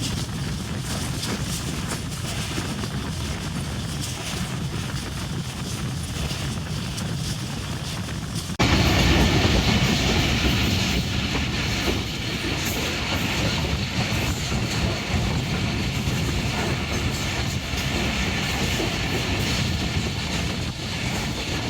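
Passenger train running, heard from on board. About a third of the way in the sound suddenly gets louder and brighter, then stays steady.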